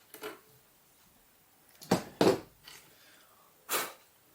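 A person's breath sounds: short, sharp sniffs or exhales, two close together about two seconds in and one hissy one near the end.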